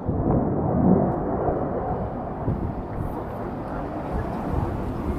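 F-22 Raptor's jet engines running at low power without afterburner on a slow pass: a steady, low rumble.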